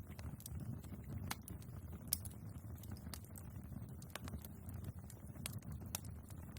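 Wood fire burning in a fireplace: a steady low rumble of the flames with irregular sharp crackles and pops from the logs, the loudest pop about two seconds in.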